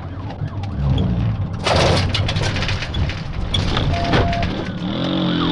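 Patrol car in a pursuit: the engine runs steadily under scattered clicks, a short burst of radio static about two seconds in and a brief beep around four seconds in. The siren starts to wail near the end.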